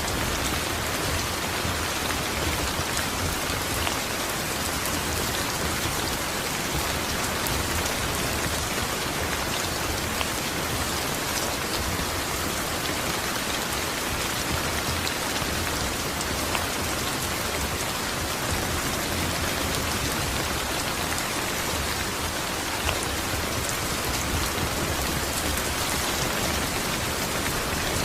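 Steady rain falling, an even, unbroken hiss with faint scattered drop ticks.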